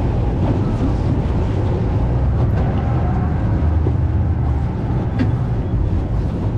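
Motorboat under way: a steady engine rumble, with water washing against the hull.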